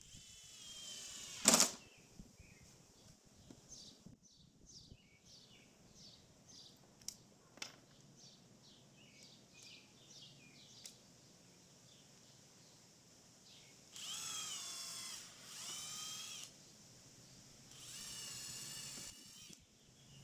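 Power drill whirring in two bursts of about two seconds each near the end, driving fasteners into the loam screen's frame. About a second and a half in, a brief whir ends in a loud, sharp knock, the loudest thing here, and faint high chirps, likely birds, come and go in between.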